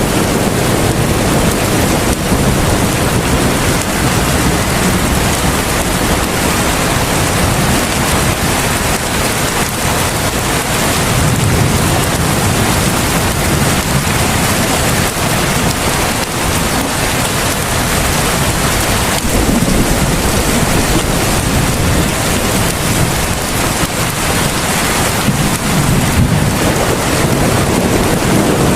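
Heavy rain falling steadily, a dense even hiss, with a low rumble swelling and fading a few times, like distant thunder.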